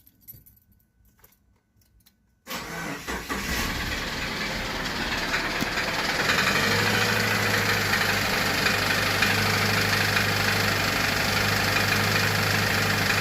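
Subaru Forester's FB25 2.5-litre flat-four engine starting up about two and a half seconds in and then running steadily, with a piston knocking against its cylinder wall: detonation has deformed the cylinder and the piston skirt.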